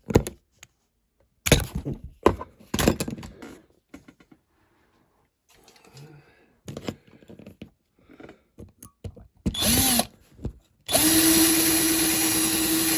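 Small electric drill spinning up briefly, then running steadily for about two and a half seconds near the end, while working the grille free from a diecast model car body. Before that come several clicks and knocks of the metal model being handled.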